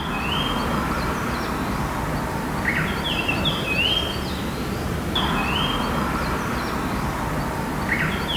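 A songbird singing a short whistled phrase, a rising note followed by a few higher clear notes, repeated about every two and a half to three seconds over a steady low rumble.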